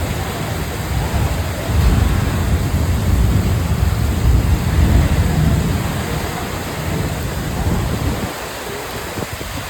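Heavy rain pouring down, an even rushing noise under a low rumble that swells about two seconds in and eases near the end.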